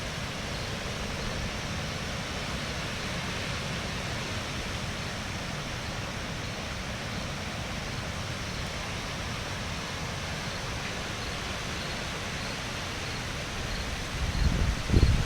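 Steady hiss of rain falling, with a gust of wind buffeting the microphone near the end.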